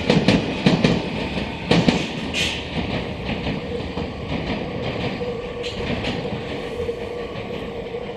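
Meitetsu electric commuter train pulling away along the track, its wheels clicking over the rail joints, the clicks loudest at first and the sound fading as it recedes. A faint steady hum joins the rumble midway.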